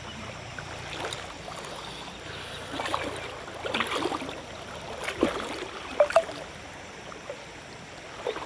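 River water running over rocks, with irregular splashes and sloshes on top.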